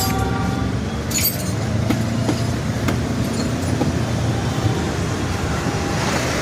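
Steady low vehicle rumble with a few light metallic clicks.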